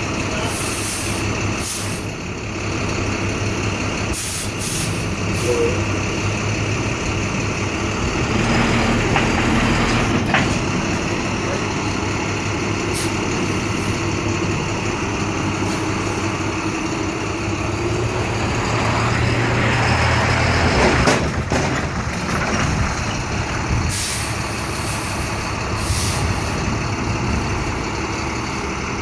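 Street traffic: vehicle engines running steadily, with two louder swells as vehicles pass and several short hissing bursts.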